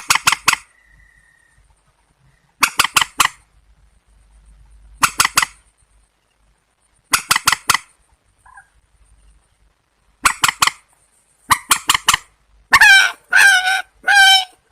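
Calls of a swamphen (trích) and a white-breasted waterhen (quốc): short harsh clusters of three or four rapid notes every couple of seconds, then, near the end, a run of longer wavering calls repeated about every half second.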